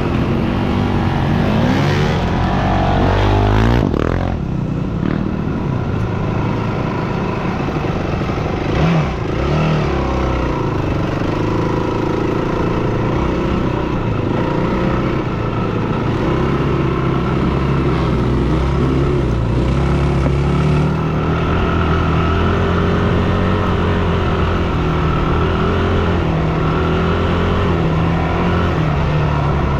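Yamaha WR250F dirt bike's four-stroke single-cylinder engine running under way, its pitch rising and falling with the throttle. A couple of sharp knocks come through, one about four seconds in and a louder one about nine seconds in.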